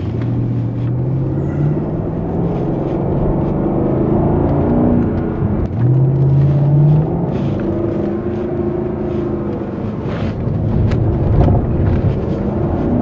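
Jaguar XK's 4.2-litre V8 pulling while held in one gear, heard from inside the cabin. Its note climbs with the revs and falls back, with a brief dip about six seconds in.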